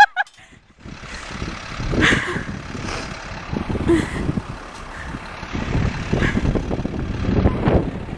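Wind buffeting the microphone in a blizzard, an uneven rumbling noise that swells and drops.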